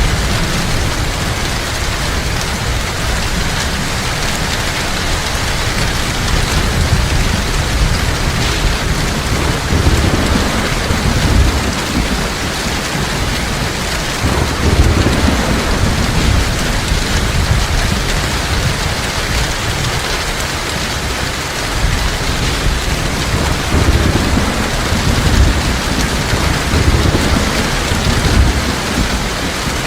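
Heavy rain falling steadily, with low thunder rumbles that swell and fade several times.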